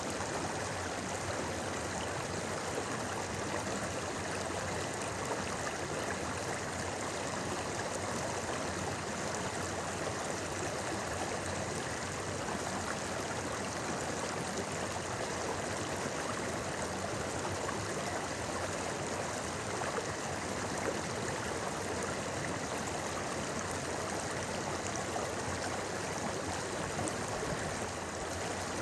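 Shallow mountain stream babbling steadily over rocks, an even rush of flowing water.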